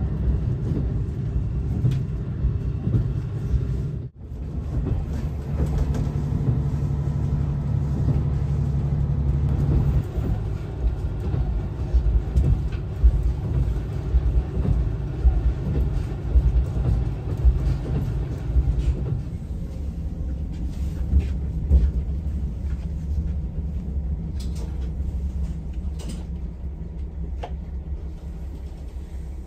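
Inside a diesel railcar on the move: a steady engine drone under the rumble of wheels on the rails, with occasional short clicks.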